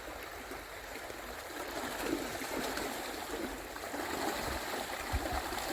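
Stream water running steadily, a continuous rushing sound, with a few brief low thuds near the end.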